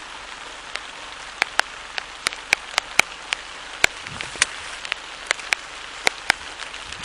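Rain: a steady hiss with irregular sharp drop taps, about two or three a second, coming more often near the end.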